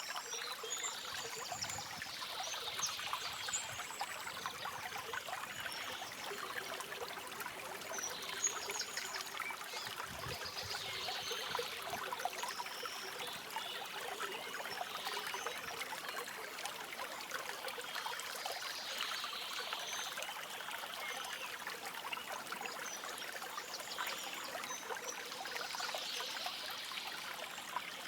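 Stream water trickling and babbling steadily, with birds chirping briefly every few seconds over it.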